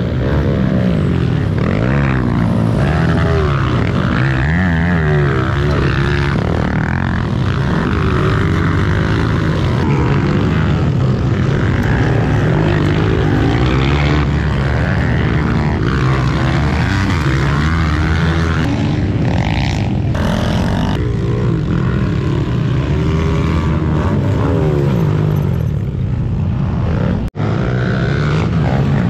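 Several pit bike engines revving and shifting on a motocross track, their pitches rising and falling over one another. The sound drops out abruptly for a moment near the end.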